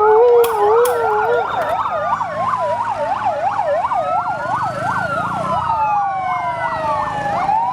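Toy fire truck's electronic siren sounding, with several siren tones overlapping: a fast yelp and slower rising and falling wails.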